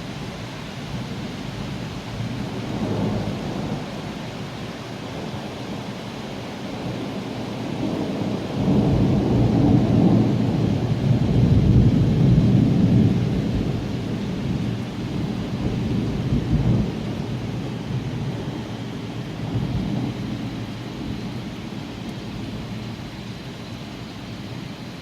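Steady rain with a long roll of thunder that builds about a third of the way in, peaks, and rumbles on, fading in waves.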